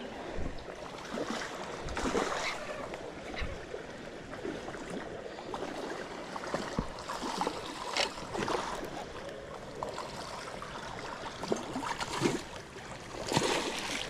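Flowing river water, with irregular splashes at the surface, the loudest about two seconds in, about eight seconds in and near the end.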